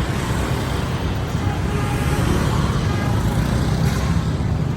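Street traffic passing close by: a steady mix of engines and road noise, with faint voices underneath.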